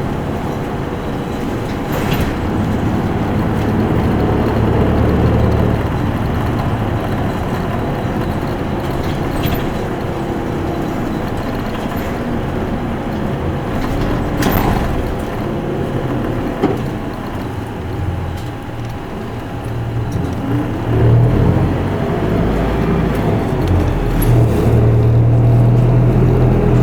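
Interior running sound of an Isuzu Erga Mio city bus's four-cylinder diesel engine, with steady road noise and a few knocks and rattles from the body. The engine note changes as it drives, pulling harder and rising in the last several seconds.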